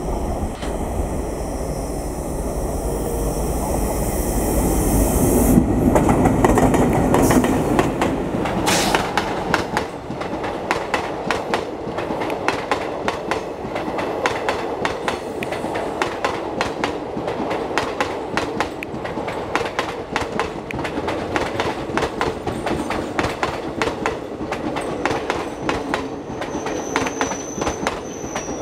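WDM-3A diesel locomotive approaching with a deep engine rumble. From about eight seconds in, the passenger coaches pass with a fast, continuous clickety-clack of wheels over rail joints. A thin high wheel squeal comes in near the end.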